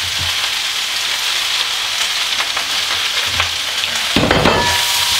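Fried rice sizzling in a hot wok while a wooden spatula stirs and scrapes through it, with a louder clatter of stirring about four seconds in.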